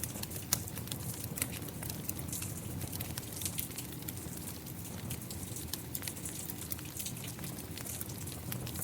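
Steady rain with a wood fire crackling: a constant hiss of rainfall and frequent sharp, irregular pops and clicks from the burning wood.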